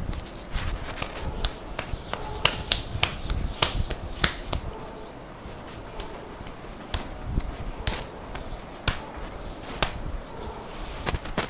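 Hands slapping and striking the neck and shoulders in a strong percussive massage: sharp, irregular slaps on skin, coming thickly in the first few seconds and more sparsely after.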